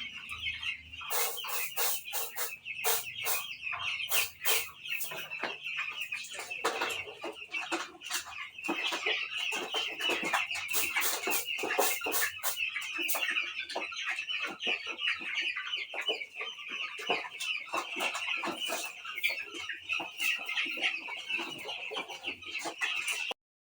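A flock of two-week-old chicks peeping together in a continuous high chorus, mixed with many sharp clicks and taps. The sound cuts off suddenly near the end.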